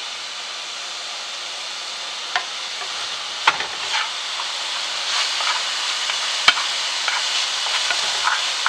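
Diced vegetables sizzling as they fry in a skillet while a wooden spoon stirs and turns them, with a few sharp knocks of the spoon against the pan. The sizzle grows louder about halfway through.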